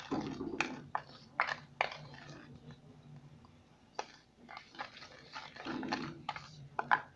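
Toothpaste-and-salt slime mixture being stirred and worked: irregular wet, sticky clicks and smacks, a few every second or so.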